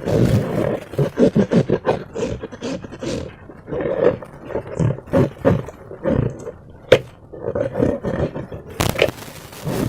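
Slime being squeezed and worked by hand, giving a run of short, wet squelches, with a sharp click about seven seconds in.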